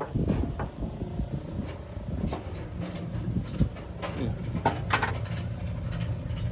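Car engine idling with a steady low rumble and hum, with scattered light clicks and knocks.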